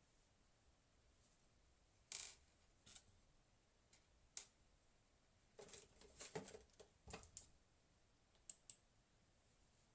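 Scattered light clicks, taps and rustles of small hardware being handled, with a busier cluster of clicking and scraping about two-thirds of the way in and two sharp ticks near the end.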